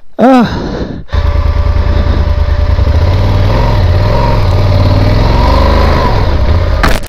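A short grunt, then about a second in a Yamaha Super Ténéré 1200's parallel-twin engine comes in loud and runs under throttle, its revs rising and falling as the stuck bike is driven to climb out of the creek bed. It cuts off just before the end.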